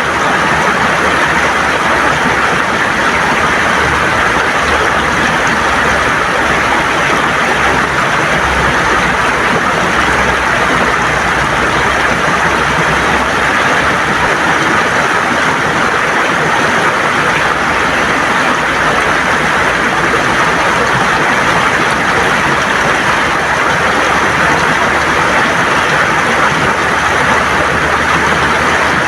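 River water gurgling and rushing over stones, a steady, even flow of noise with no breaks.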